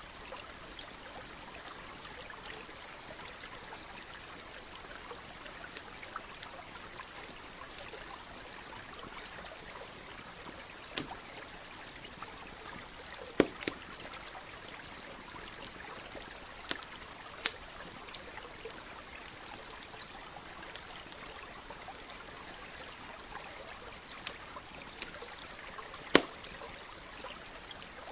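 Campfire crackling with scattered sharp pops, the loudest two about halfway through and near the end, over the steady trickle of a stream.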